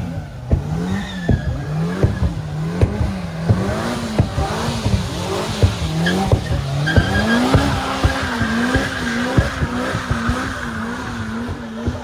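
A car doing a burnout or donuts: its engine note rising and falling about once a second, then wobbling faster over the last few seconds, with tyres squealing and scattered sharp pops.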